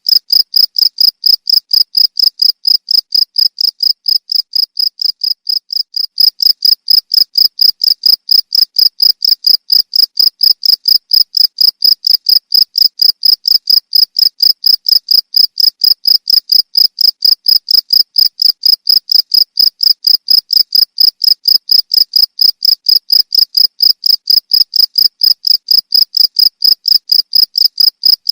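Cricket chirping steadily in an even, unbroken rhythm of about three or four high-pitched chirps a second.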